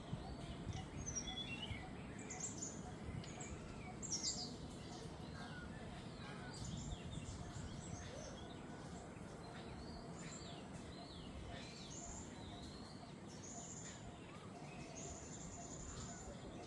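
Jungle bird chorus: many birds chirping and whistling in quick overlapping calls, some sliding in pitch, over a steady low background hiss. The calls are loudest about four seconds in, and one longer held whistle comes near the end.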